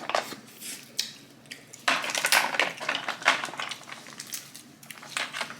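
Snow crab leg shells being cracked and snapped open by hand: a run of sharp cracks and clicks, densest about two seconds in.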